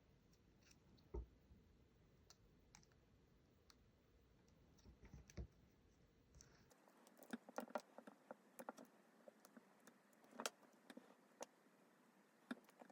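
Faint, scattered clicks and small ticks of a thin plastic pick prying up the edge of a phone's screen bezel, coming more often in the second half.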